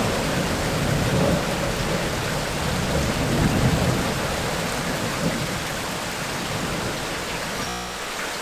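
Heavy tropical rain falling steadily with low rumbling thunder. Near the end there is a brief break, after which the thunder is gone and only the even hiss of the rain remains.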